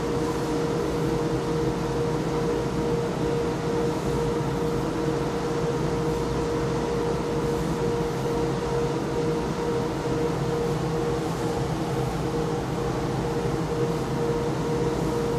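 Steady drone of industrial machinery running without letup, a constant mid-pitched tone over a broad rumble and hiss.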